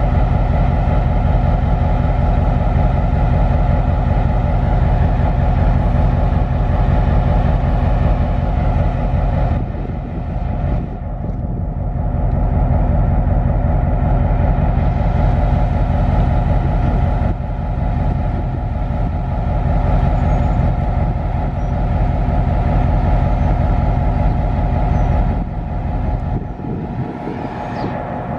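Heavy vehicle engine running steadily, a loud low rumble with a steady pitched drone. It eases off briefly about ten seconds in and again near the end.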